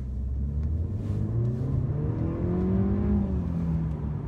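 New Mercedes-Benz C-Class's 1.5-litre four-cylinder mild-hybrid engine accelerating hard in Sport Plus mode, heard from inside the cabin. The engine note rises in pitch for about three seconds, then eases down slightly near the end.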